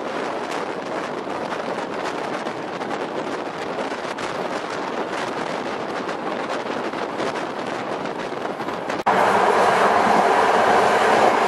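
Passenger train running at speed: steady rushing noise with wheels clattering over the rails. About 9 s in, the sound cuts suddenly to a louder, steadier rumble heard inside the compartment.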